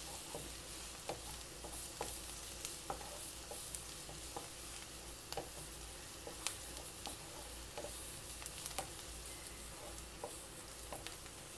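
Chopped onion, green chilli and garlic frying lightly in a little oil with a faint, steady sizzle, and scattered small clicks and scrapes of a spatula stirring them around the pan.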